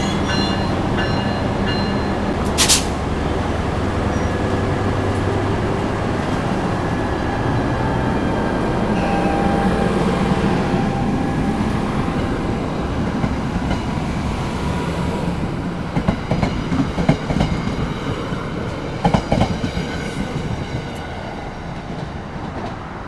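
NJ Transit diesel passenger train of three coaches moving past. The locomotive's engine runs steadily for the first several seconds, with a sharp clank about three seconds in. Then the coach wheels rumble and click over the rail joints, growing fainter near the end as the train draws away.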